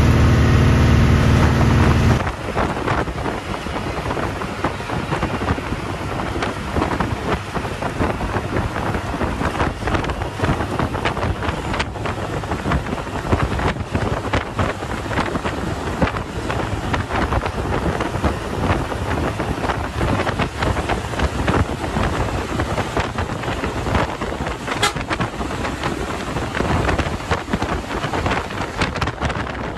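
A Hino 1J bus engine drones steadily for about two seconds, then the sound changes abruptly to wind rushing and buffeting the microphone, with rapid crackling gusts, as the bus travels at speed.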